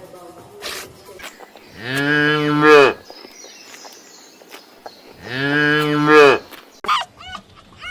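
Cow mooing twice: two long moos, each a little over a second, about three seconds apart.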